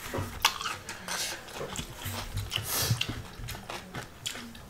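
Close-miked chewing and biting of raw vegetables: crisp crunches of raw cucumber with wet mouth sounds, several sharp bites scattered through.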